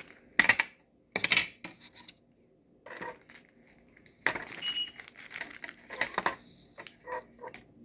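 Craft materials being handled on a table: irregular clicks, knocks and rustles, with a brief light clink about five seconds in.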